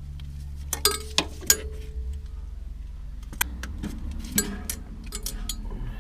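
Metal clinking and knocking, with a few sharp strikes about a second in, one of which rings briefly, and more scattered clinks later, over a steady low hum.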